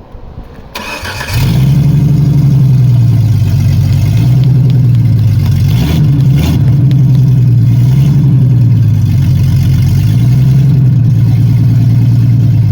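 A Jeep engine starts about a second in and runs very loud, its exhaust not yet fully reconnected, with engine speed gently rising and falling every couple of seconds. It has just been restarted after its oil pan was refitted.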